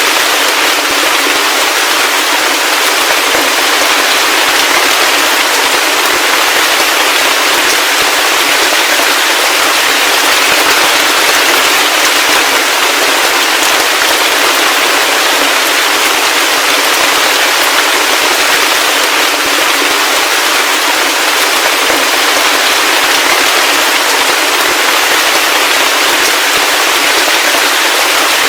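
Heavy rain falling steadily: a dense, even hiss of drops with no low rumble.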